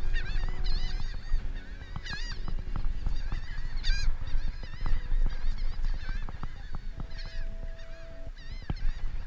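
Birds calling again and again in short, wavering, high calls over a low rumble, with sharp clicks and scrapes from a metal-detecting sand scoop being worked in the sand.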